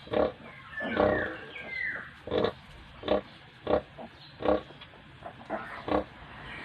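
Sow grunting in short, regular grunts while nursing her piglets, with a few high, falling piglet squeals about one to two seconds in.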